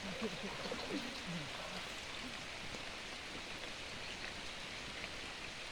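Steady rain falling, an even hiss, with a faint voice in the first second or so.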